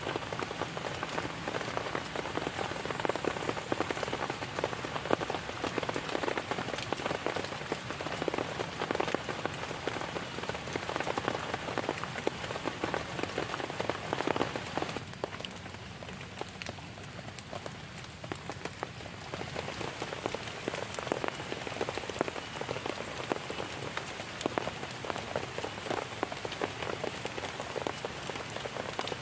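Heavy rain falling, countless drops hitting a surface in a dense, even patter that eases for a few seconds about fifteen seconds in, then returns.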